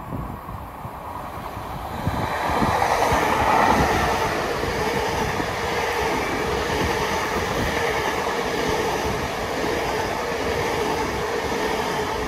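Great Western Railway Hitachi Intercity Express Train running in along the platform. Its noise builds over the first three seconds as the front draws level, then holds steady as the coaches roll past. Wheel-on-rail noise carries a steady hum.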